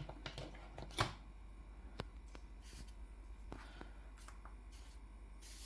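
Faint scattered taps and clicks of drawing supplies being handled, with a sharper click about a second in and another near two seconds.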